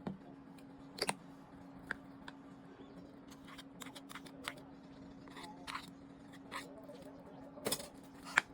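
Kitchen prep sounds: scattered light clicks and taps, a dozen or so at irregular intervals, over a steady low hum.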